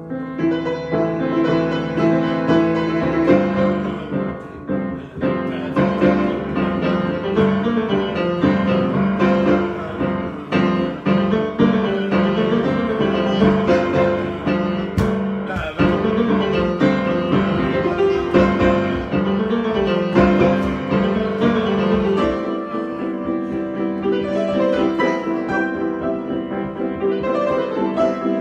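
Solo piano improvisation: busy, dense playing that grows louder at the start, and the bass notes thin out about two-thirds of the way through.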